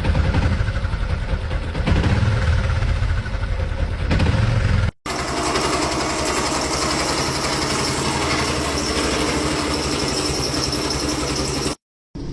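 Motorcycle engines running in two separate short clips, cut apart about five seconds in and again just before the end. The first has a heavy low rumble; the second a rapid, even pulsing with more hiss.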